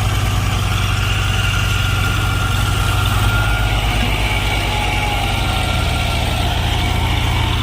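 Tractor diesel engine running steadily with an even low pulse.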